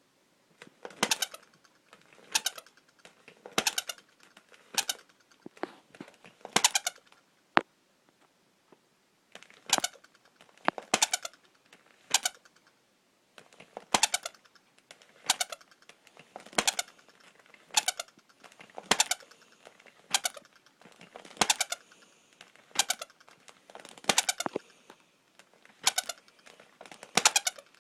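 Baby Giggles toy doll giggling over and over, a short high laugh about every second and a half: its voice working again after being repaired. A single sharp click sounds about seven and a half seconds in.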